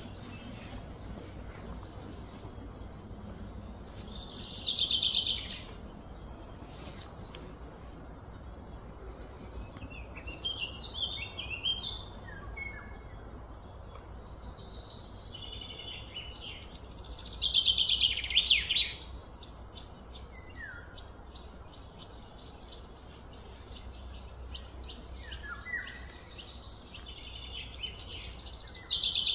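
Birds singing: three loud trilled phrases, about four seconds in, around seventeen seconds and at the very end, with shorter chirps and slurred notes between them, over a steady high chirring.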